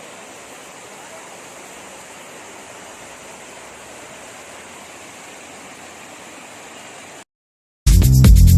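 Steady rush of running water, ending abruptly about seven seconds in; after a moment of dead silence, loud electronic music with a heavy beat starts near the end.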